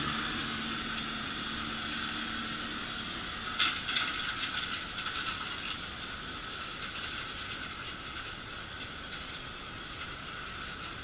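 Vacuum cleaner running with a steady airy whoosh, with a burst of clicks and rattles about four seconds in.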